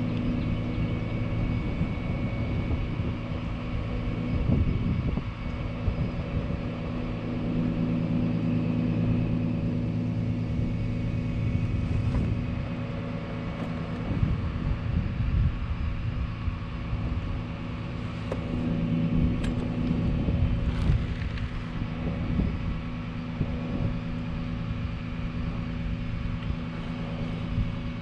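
Bucket truck's engine running steadily with a low, even hum, a few faint clicks and ticks over it in the second half.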